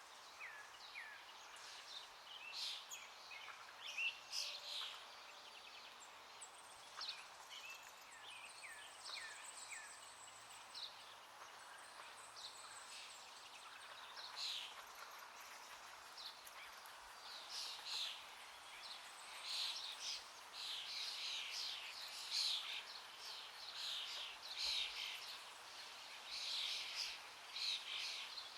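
Birds chirping, many short calls throughout and busier in the second half, over a steady faint hiss.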